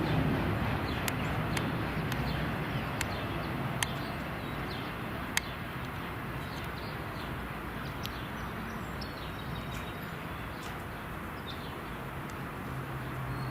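Outdoor background rumble, slowly fading, with scattered short bird chirps over it.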